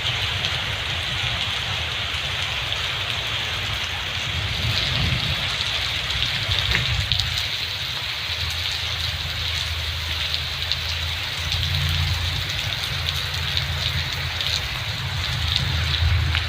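Heavy rain pouring steadily, a dense even hiss, with a low rumble underneath that becomes steadier and louder from about halfway through.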